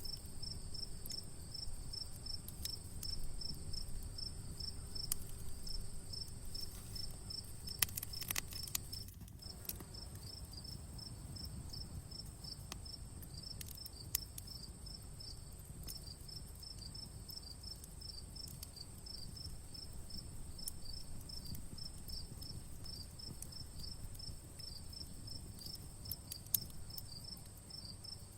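Crickets chirping in a rapid, even rhythm over a steady high insect drone, with the crackle of a campfire underneath: scattered small snaps and a few sharper pops, the loudest about eight, fourteen and twenty-six seconds in.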